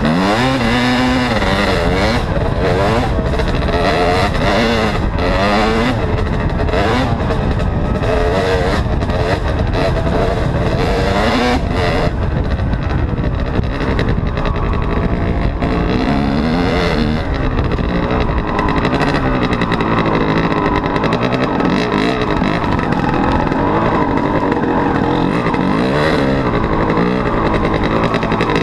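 Dirt bike engine running hard, its pitch rising and falling over and over as the throttle opens and closes.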